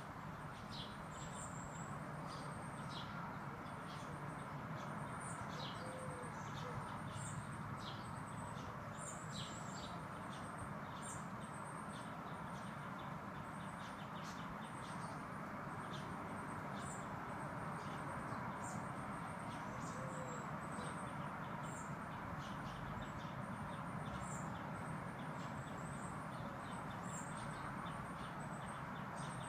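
Small garden birds chirping and calling, many short high notes repeated over and over, over a steady background rush.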